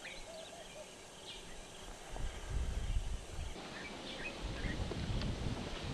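Open-country ambience with scattered short, high bird chirps. From about two seconds in, an irregular low rumble comes in under them in gusts.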